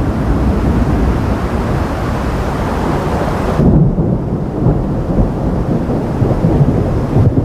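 Thunder rumbling low and continuously through a storm. A higher hiss drops away abruptly a little past halfway while the deep rumble carries on.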